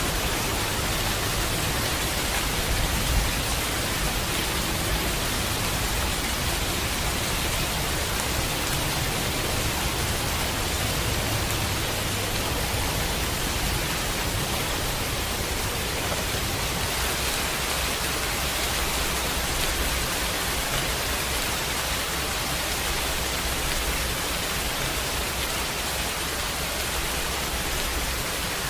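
Steady downpour of a rainstorm, an even hiss of rain with a low rumble underneath.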